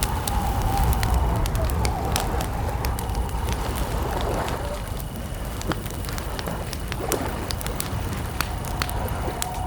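Campfire crackling, with frequent sharp pops over a low rumble of burning wood. Crickets keep up a steady high chirring behind it.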